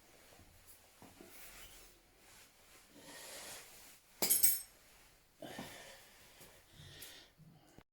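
Small metal parts clinking and scraping as they are handled, with one sharp clank about four seconds in.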